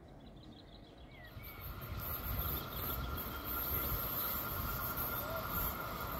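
A train approaching through the station: rail rumble and hiss build up from about a second in, with a steady high ringing tone from the wheels on the rails.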